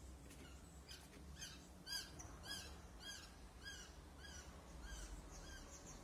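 A faint bird chirping: a run of short, arched notes repeated about twice a second.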